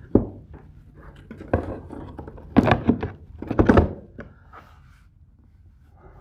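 Router on its plexiglass mounting plate being knocked and set into its cut-out in a wooden work table: a sharp knock at the start, then several clusters of hard knocks and clunks over the next four seconds.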